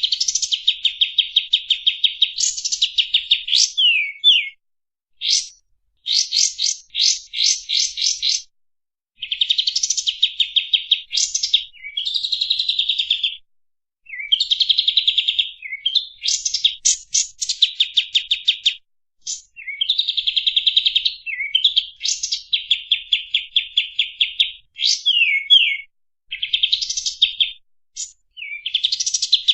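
Kapas tembak singing: rapid, machine-gun-like trills of repeated high notes in phrases of a second or two, some ending in quick downward slurred notes, with short pauses between phrases.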